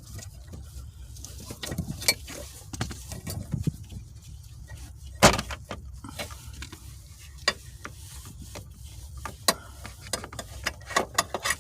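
Scattered clicks and knocks as the shift linkage is unclipped and pulled from a Chevy Cobalt's manual shifter. One louder knock comes about five seconds in, over a low steady rumble.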